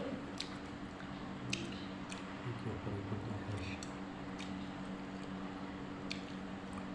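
Quiet chewing with a few faint, short mouth clicks scattered through, over a steady low hum.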